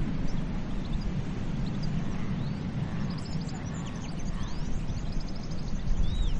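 Low, steady rumble of sea surf and wind with small birds chirping over it: short high calls, and runs of quick trills a few seconds in.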